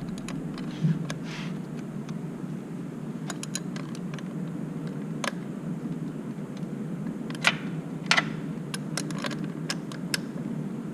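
Scattered small metallic clicks and taps of a wrench working the throttle cable adjuster, loudest about three quarters of the way through, over a steady low background hum.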